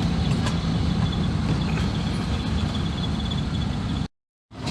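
1980 Land Rover Series III engine running while the vehicle drives: a steady low drone with a few light clicks and rattles. The sound cuts to silence for a moment near the end.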